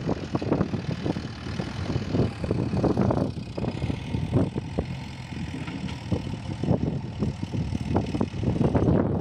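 Diesel engine of a JCB 3DX backhoe loader running, its level rising and falling.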